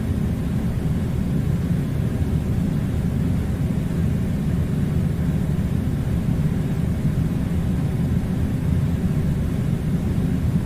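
A steady low rumble of machine-like noise, even and unbroken, with no distinct events.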